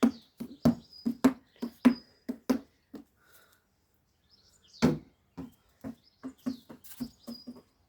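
A basketball bouncing on a hard floor: two runs of quick thuds, about three a second, each starting with a louder hit, with a short pause between them. A few short high squeaks are heard among the bounces.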